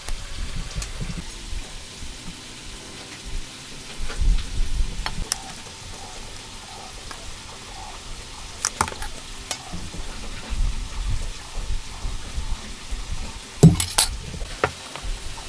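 Hand tools working wood: a soft scraping hiss broken by low thuds and a few sharp knocks, the loudest near the end.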